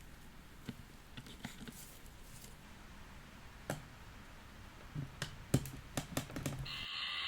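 Hands handling a plastic fashion doll and its small parts: scattered light clicks and taps, coming closer together late on. A steady hiss starts just before the end.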